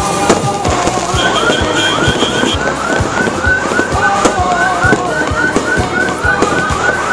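Fireworks going off in quick, irregular bangs. Through them an electronic alarm sounds a fast, repeating rising chirp, about three a second, starting about a second in.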